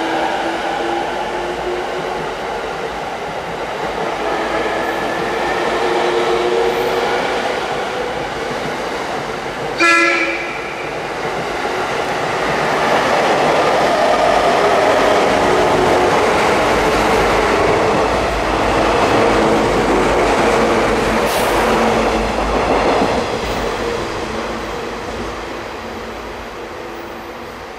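JR 185 series electric train running into and through the station. A short horn blast comes about ten seconds in, then the wheels clatter and rumble loudest as the cars pass close by, and the sound fades near the end.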